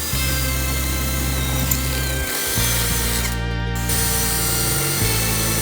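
A power tool running in stretches, with short stops about two seconds in and again near the end, over background music.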